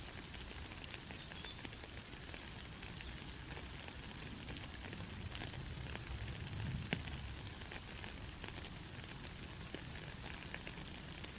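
Steady hissing sleep-noise track with scattered fine crackles and clicks, a sharp click about seven seconds in, and a few brief high whistles.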